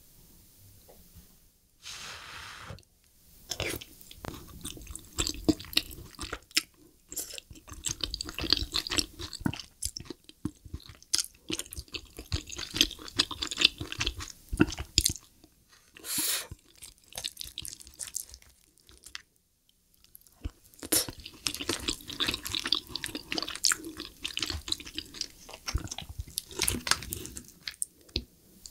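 Close-miked chewing of spicy braised lobster tail meat with melted cheese: wet, squishy mouth sounds broken by sharp clicks and taps. There is a short pause about two-thirds of the way in.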